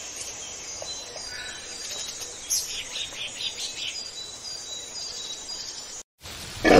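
Birds chirping and calling over a steady background of natural ambience, with a short cluster of calls about three seconds in. The sound drops out for a moment near the end, and then a loud animal call starts right at the close.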